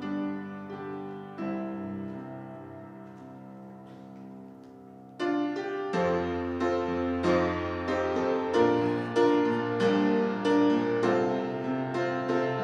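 Instrumental piano music: soft held chords fade away over the first few seconds, then louder playing with repeated struck notes starts suddenly about five seconds in.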